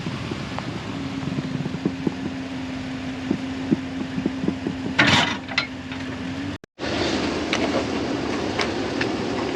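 Half-ton pickup truck running with a steady hum and a held tone, scattered light clicks and one sharp clatter about five seconds in; after a brief break the steady running continues with a rougher, noisier sound.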